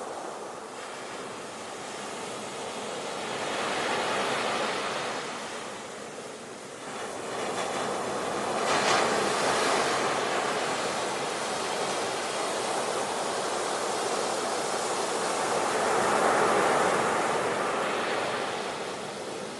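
Ocean waves breaking and washing up on the shore, rising and falling in slow surges, with one sharper break about nine seconds in.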